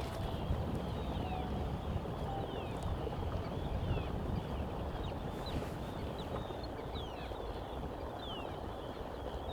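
Birds giving many short, high, downward-sliding calls at irregular intervals, over steady low wind rumble on the microphone.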